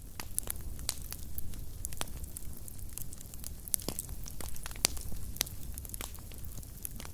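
Wood fire burning in a fireplace: a low steady rumble of flames with irregular sharp crackles and pops, a couple of louder pops in the middle.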